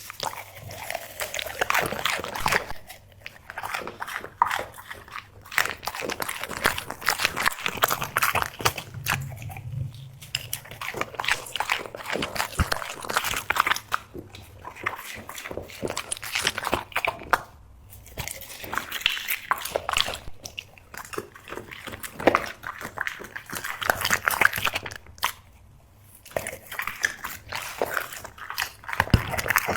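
A dog chewing and crunching food in quick, dense bites, with a few short pauses.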